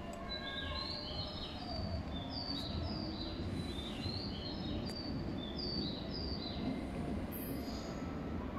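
Tobu 8000-series-family electric commuter train pulling away from the platform, a steady low rumble, with many short high bird-like chirps repeating over it.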